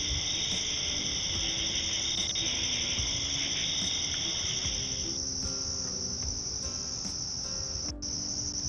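Chorus of trilling insects, steady and high-pitched in two layers; the lower layer stops about five seconds in while the higher one carries on.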